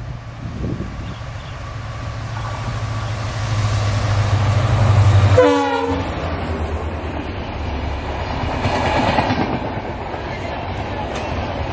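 A diesel locomotive hauling a passenger train approaches, its engine drone building to a peak. About five and a half seconds in, as it passes, it sounds a short horn note. The coaches then run by with a steady rumble and a clickety-clack over the rail joints.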